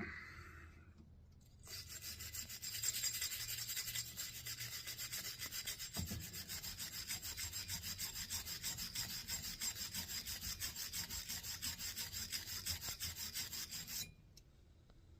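Wire brush scrubbed over a steel axe head to strip old paint: quick, even back-and-forth strokes, about four a second, starting a couple of seconds in and stopping abruptly near the end.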